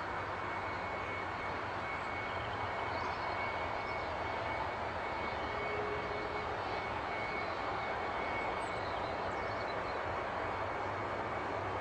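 Jet airliner engine running steadily: a constant rush of air noise with a thin, steady high whine over it.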